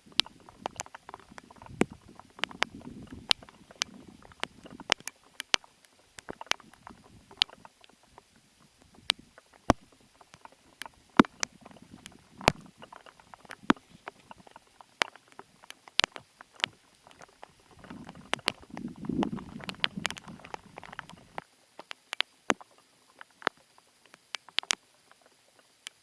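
Scattered sharp taps and clicks at an irregular pace, with two stretches of low rumbling, the louder one a little past the middle.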